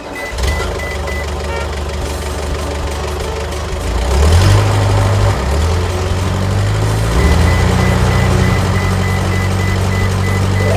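Cartoon vehicle engine sound effect: a steady low hum that steps up in pitch about four seconds in and shifts a couple more times after.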